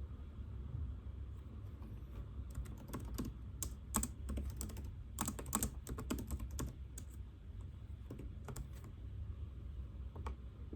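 Typing on a computer keyboard: irregular runs of keystrokes from about two and a half seconds in until about nine seconds, then a single keystroke near the end, over a steady low hum.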